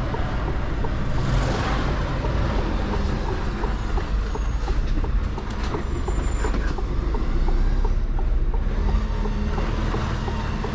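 Mercedes-Benz Actros truck's diesel engine running as the truck drives, heard from inside the cab, with a light regular ticking over it.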